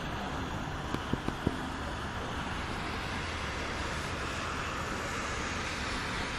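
Snowstorm wind blowing steadily, with a few quick soft knocks about a second in.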